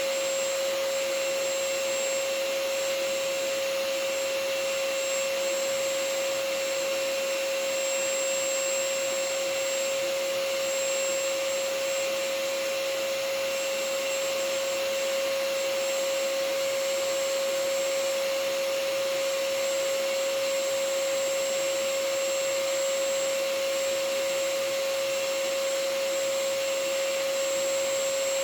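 Vacuum cleaner running steadily: an even rushing noise with a constant motor whine, with no change in pitch or level.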